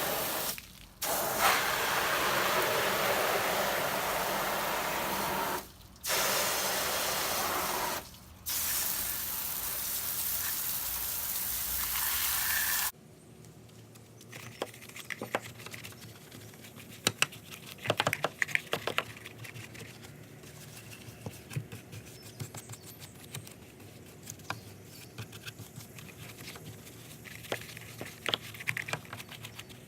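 Water jet rinsing cleaner off a car wheel: a loud, steady hiss that stops briefly three times as the trigger is let go, then cuts off about 13 seconds in, leaving only faint scattered clicks.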